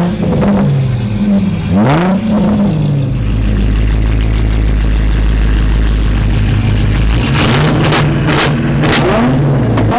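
Car engine revving hard again and again, the pitch jumping up and falling back, then held at a steady drone for a few seconds. Several sharp cracks ring out near the end.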